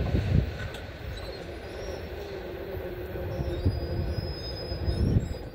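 Intermodal freight train rolling away from the crossing: a low rumble of railcars that swells and fades, with a faint high wheel squeal in the second half.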